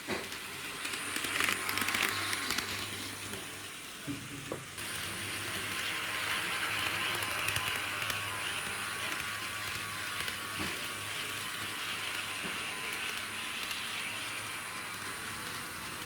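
HO-gauge model diesel railcar running along the track: a steady whirring hiss of the motor and wheels, with a low hum and a few light clicks.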